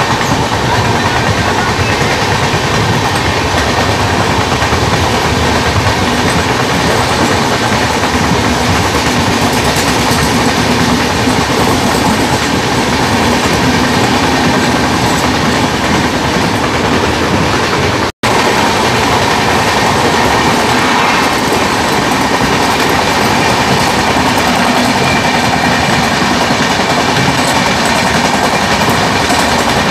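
Steady, loud running noise of two express passenger trains travelling side by side at speed, heard from an open coach door. The sound cuts out for an instant about two-thirds of the way through.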